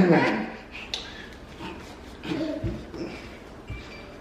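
A voice dies away at the start, then faint, brief vocal sounds and two dull low thumps in a small room.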